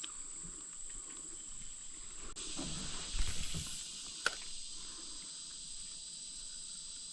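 Steady high-pitched insect droning, with a short low rumble of handling noise about three seconds in and a single sharp click about a second later.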